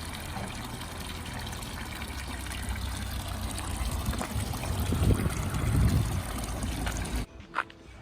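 Steady rush of running water, with a low rumble swelling about five to six seconds in; it cuts off abruptly near the end.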